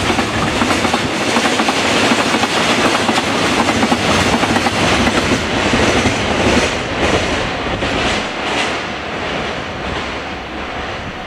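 Freight train tank wagons rolling past, their wheels clattering rhythmically over the rail joints. The last wagons go by about two-thirds of the way through, and the rolling noise dies away.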